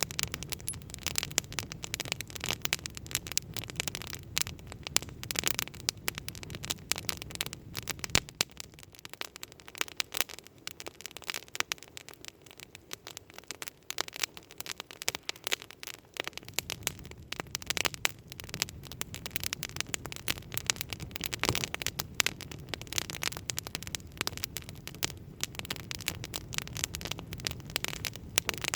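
Wood campfire crackling, with many sharp pops and snaps over a steady hiss. A low rumble under it fades out for several seconds in the middle, then returns.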